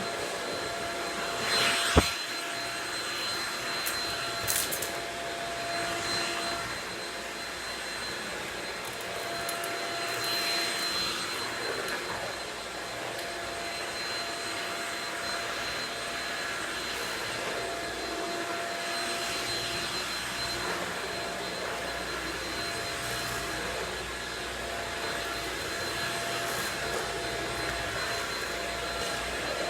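Shark Rocket corded stick vacuum running steadily over the floor, a constant motor whine under a rushing hum that swells slightly as it is pushed about. A single sharp knock about two seconds in.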